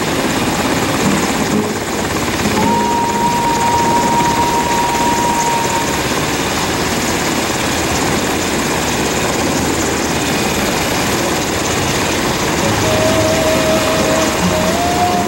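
Helicopter running close by: a loud, steady rotor and turbine noise, with a thin steady whine coming in twice over it.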